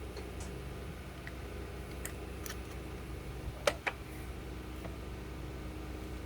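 A few light clicks and taps of small hard parts being handled, the loudest a quick pair a little past the middle, over a steady low hum.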